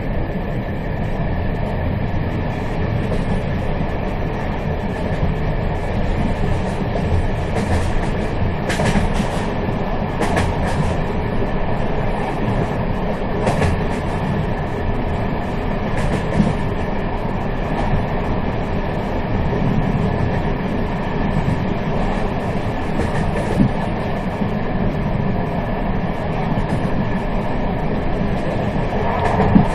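A moving train running steadily: a continuous low rumble with occasional sharp clicks from the wheels and rails.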